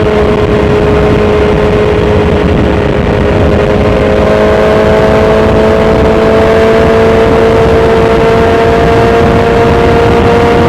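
BMW S1000XR's inline-four engine through an Akrapovic titanium full exhaust, heard onboard under way: right at the start the pitch drops, as on an upshift, then the engine pulls with its pitch rising slowly and steadily as the bike accelerates.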